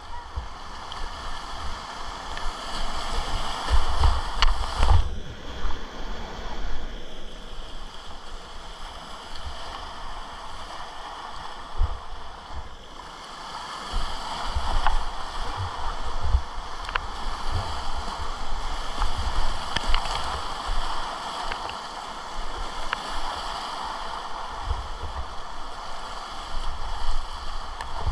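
Rushing whitewater of a river rapid: a steady rush of water, with irregular low thumps of water and wind buffeting the microphone.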